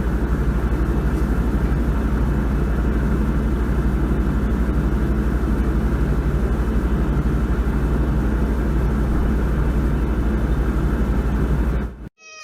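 A machine running with a loud, steady drone: a strong low hum and a fast, even pulse. It cuts off suddenly near the end.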